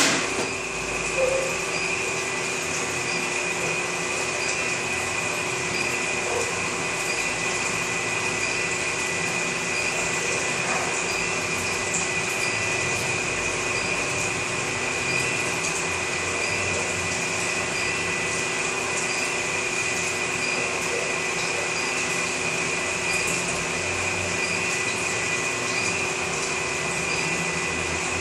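Small electric gold melting furnace running: a steady high whine with a lower hum over a constant rushing noise, with a couple of clicks at the very start.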